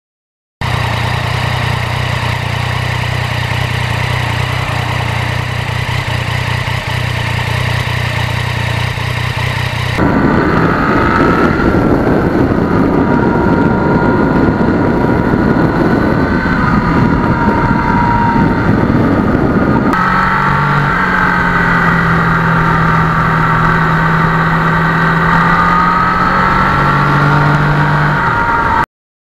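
Yamaha MT-09's 847 cc three-cylinder engine running steadily, heard in three clips joined end to end, with abrupt changes in sound about ten and twenty seconds in. The middle clip is noisier, and the last has a wavering higher whine over a steady low tone.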